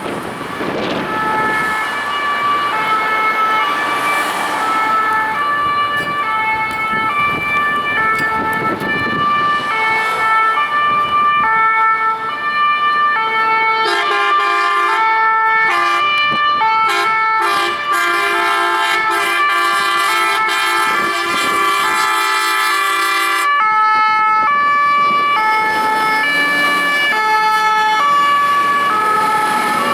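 Scania fire engine's two-tone hi-lo siren, alternating steadily between two pitches while responding to an emergency call. About halfway through, its air horns blast for roughly ten seconds over the siren.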